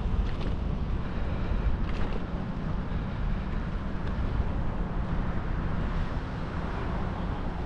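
Steady rush of wind across the microphone of a moving bicycle rider, with road noise underneath.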